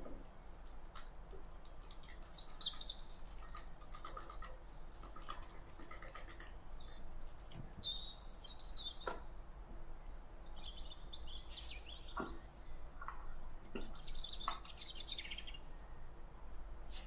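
Small birds chirping in several short bursts of twittering, with scattered light clicks and taps from small kitchen pieces being handled.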